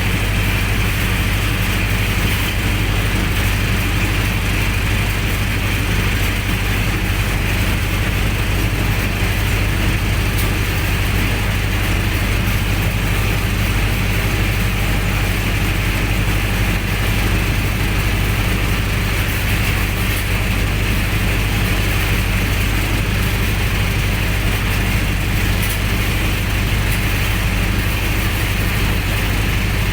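Generator set's engine running steadily at a constant speed.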